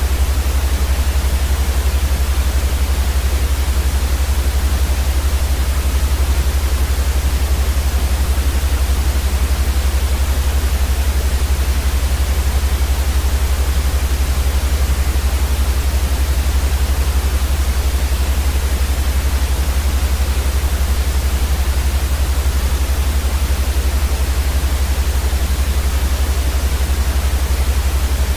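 Steady, unchanging white noise for sleep: an even hiss across the whole range over a strong low rumble.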